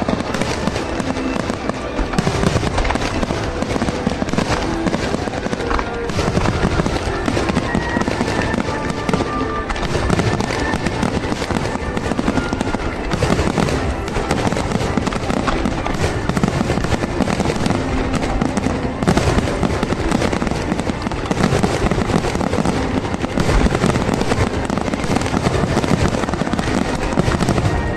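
Fireworks display: a dense, unbroken barrage of shells bursting, with booms and crackling overlapping one another.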